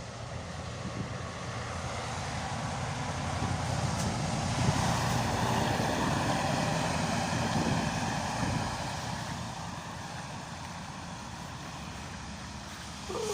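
A vehicle on a wet road: a rush of tyre and engine noise that swells over a few seconds and then fades.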